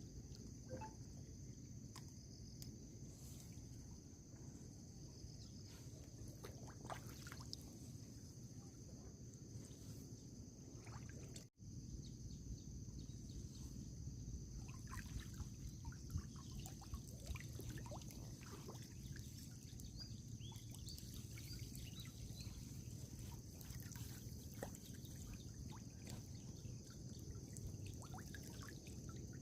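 Water trickling and splashing in small irregular patters, over a steady high insect drone.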